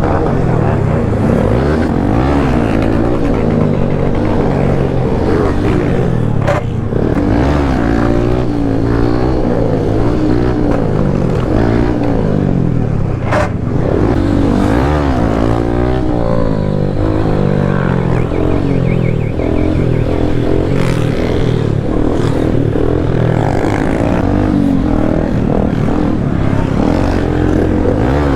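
Several motorcycle engines revving up and down together, loud and continuous, with sharp cracks about six and thirteen seconds in.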